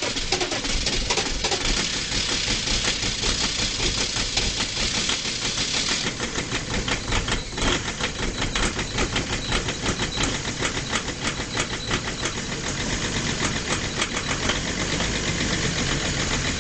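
Diesel engine of a BMW E46 3 Series Touring idling cold just after a winter cold start, with a fast, even knocking rhythm over a steady low rumble.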